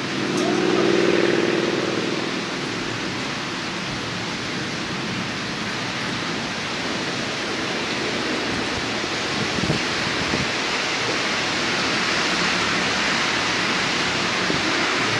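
Steady rushing hiss of rain over the city, mixed with distant street traffic. A low drone swells and fades in the first two seconds.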